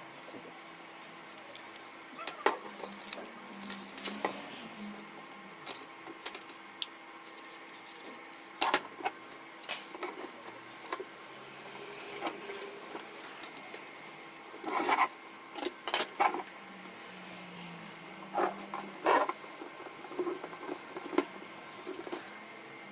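Irregular sharp clicks and knocks of plastic and metal printer parts being handled and fitted during a fuser repair, over a faint steady hum.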